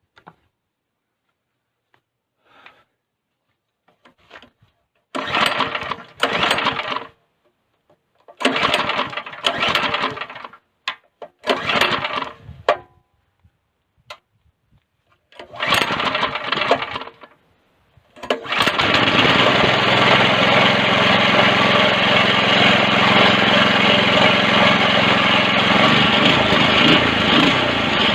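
Go-kart's small petrol engine being started: four short attempts of a second or two each, then it catches a little past halfway and keeps running steadily. It runs with its faulty kill switch wires disconnected, the fault behind its earlier failures to run.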